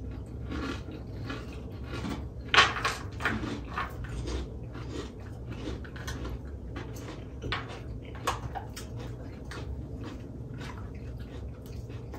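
Eating sounds close to the microphone: irregular crunching and chewing of food, one sharper crunch about two and a half seconds in, over a steady low hum.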